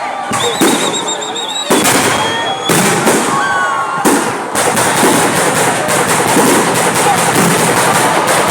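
A fireworks display: several separate bangs in the first four seconds, a warbling whistle in the first second or two, then dense, continuous crackling from about four and a half seconds in. Crowd voices run underneath.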